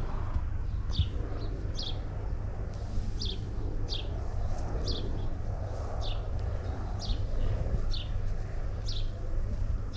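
A bird repeating a short, high chirp that falls in pitch, about once a second, over a steady low rumble.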